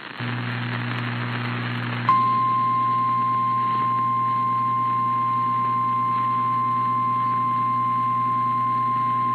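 Radio hiss with a low hum, then about two seconds in a steady single-pitch alert tone starts suddenly and holds, sounding thin as it comes through an FM radio. This is the 1050 Hz warning alarm tone that comes before a severe thunderstorm warning broadcast.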